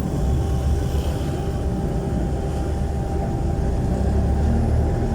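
Jeepney's Isuzu 4BC1 four-cylinder diesel engine running under way through a very loud open muffler, a steady deep drone that grows slightly stronger near the end.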